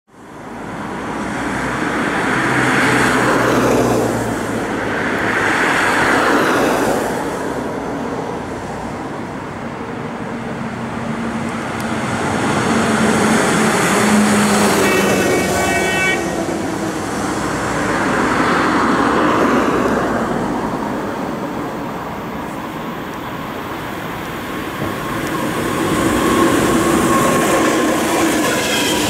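EP2K electric locomotive hauling an express passenger train approaches on the line, its running and rail noise swelling and fading. A brief horn blast comes about halfway through. Near the end the locomotive and its coaches pass close by with loud rolling wheel-on-rail noise.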